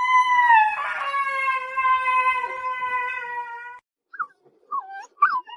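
A dog howling: one long howl of about four seconds that slowly falls in pitch, followed near the end by a few short yips.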